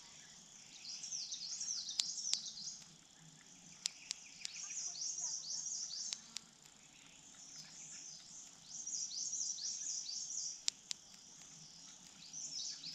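A small songbird singing, repeating a phrase of quick high, falling chirps about every four seconds, with a few sharp clicks in between.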